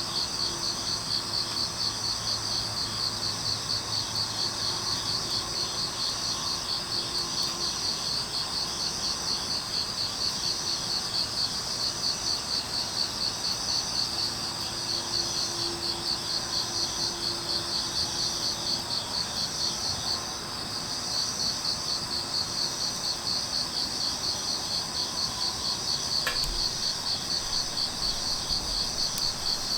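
Crickets chirping in a steady, rapid high-pitched pulse that continues throughout, with one faint click about 26 seconds in.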